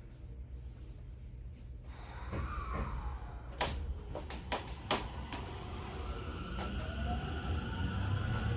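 Electric train pulling away from a station: a few sharp clunks a little past midway, then the Mitsubishi IGBT-VVVF inverter's whine rising in pitch over a low running rumble as the Tokyo Metro 05 series starts to accelerate.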